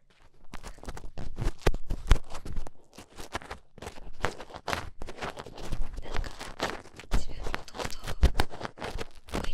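Close-miked ASMR handling of a daruma: irregular taps, scratches and rustles, with a few sharper knocks among them.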